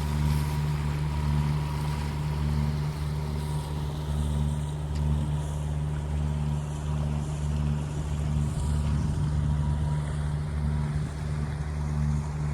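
A sailing catamaran's diesel engine running steadily under way, a constant low drone with a slight pulse, over a light hiss of wind and water.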